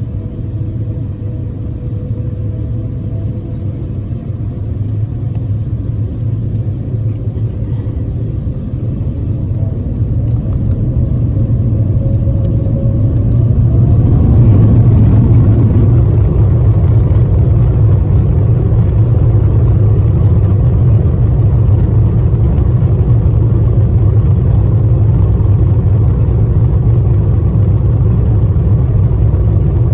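Airbus A350-1000's Rolls-Royce Trent XWB engines spooling up for takeoff, heard from inside the cabin: a low rumble that grows louder over the first half and then holds steady. A faint rising whine comes in shortly before it levels off.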